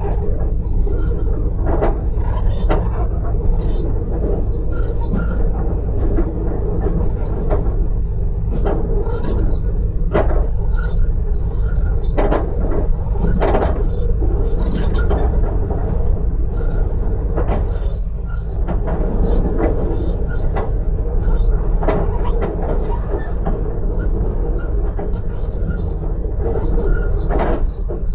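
Passenger train running at speed, heard from inside the carriage: a steady low rumble with frequent irregular rattles and knocks.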